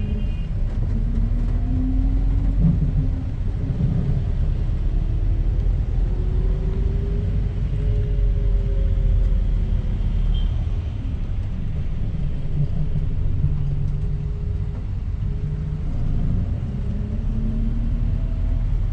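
Bus engine and road rumble heard from inside the cabin, climbing a winding hill road, with the engine note slowly rising and falling.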